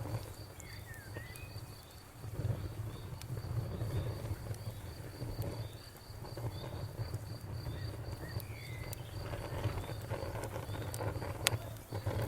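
Cricket chirping in an even, rapid pulse, about four a second, over a crackling bonfire: scattered sharp pops, the loudest one near the end, above a low rumble of the burning fire.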